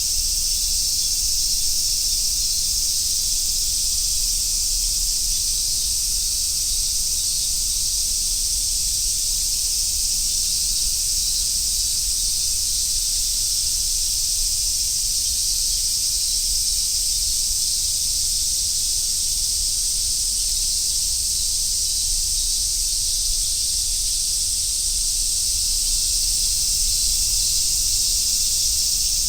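A chorus of summer cicadas singing together in a steady, high, sizzling drone that does not break or pulse.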